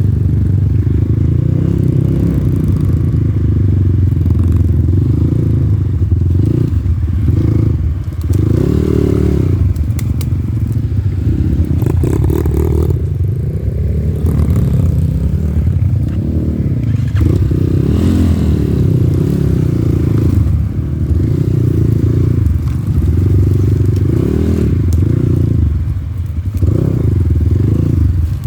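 Off-road motorcycle engine running, its revs repeatedly rising and falling as the throttle is worked, with rattling and clatter.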